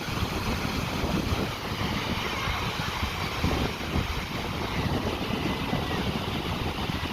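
Wind buffeting the phone's microphone in uneven gusts, over the steady wash of sea on the shore.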